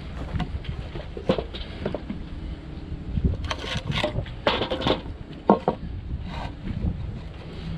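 Lumber being handled: irregular wooden knocks and scraping, busiest in the middle, with one sharp knock near the end, over a low rumble of wind on the microphone.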